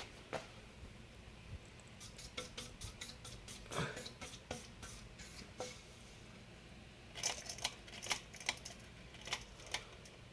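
A 52-inch Home Trends ceiling fan running at medium speed on a floor test, its motor giving a steady low hum. Over it come clusters of light irregular clicks and ticks, one run from about two seconds in and another later on.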